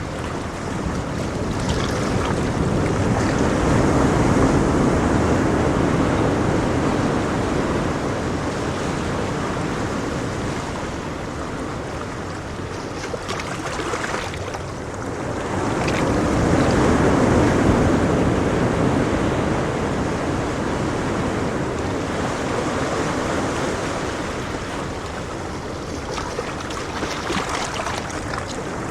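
Ocean waves washing on a shore, a steady rush of surf that swells twice, about 13 seconds apart.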